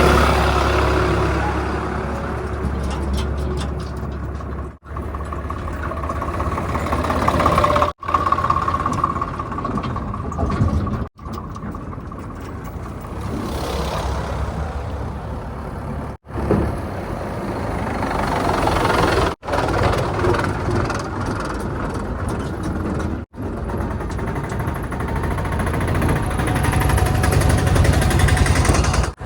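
Diesel engines of a JCB 3DX backhoe loader and the tipper trucks and tractors it loads, running under work, heard in a string of short clips with six abrupt cuts between them.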